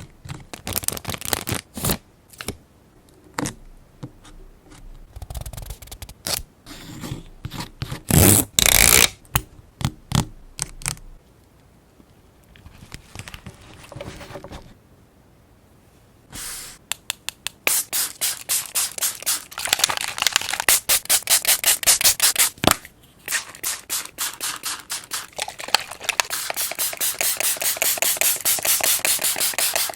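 Paper craft handling sounds: crisp rustling, tapping and scraping of paper and stickers, with a loud rustle about eight seconds in. From about seventeen seconds in, a fast, even run of short scratchy strokes, several a second.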